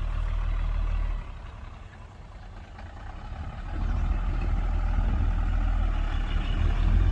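Heavy diesel engine of earthmoving equipment running with a low rumble. It eases off about a second in and builds back up from about four seconds in.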